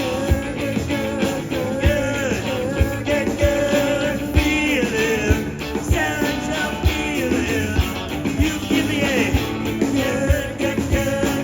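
Live blues-rock band playing: a steady beat of about two kick-drum hits a second under bass and bending lead lines.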